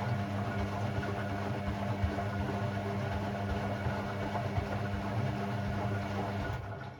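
Hoover AI130 washing machine running in its Delicate 15 cycle: a steady hum over a hiss, stopping abruptly about six and a half seconds in.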